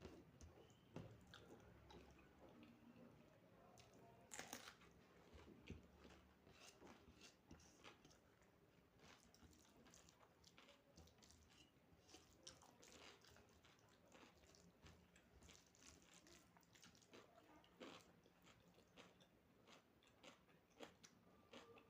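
A person chewing a meal of soya chunk curry, rice and salad close to the microphone. Many short, sharp mouth clicks and crisp bites come irregularly throughout.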